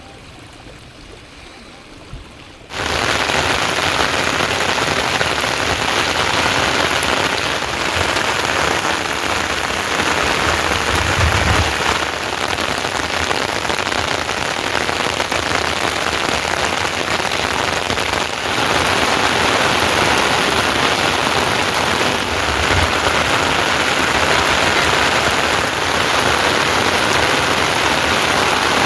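Heavy rain falling, a steady dense hiss that comes in suddenly, loud, about three seconds in after a much quieter start, with a couple of brief low rumbles partway through.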